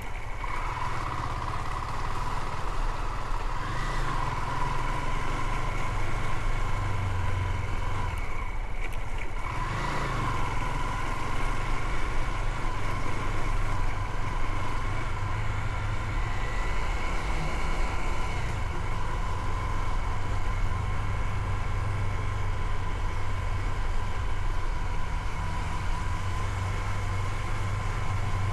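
Motorcycle riding along with its engine running steadily under road and wind noise. A high whine holds steady and rises briefly twice, about four and ten seconds in.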